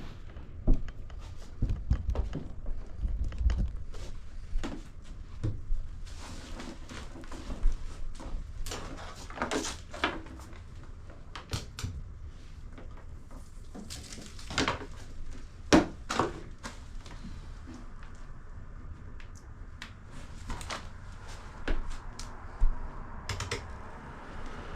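Irregular handling clicks and knocks while an electric space heater is set up and switched on, with a low rumble during the first few seconds.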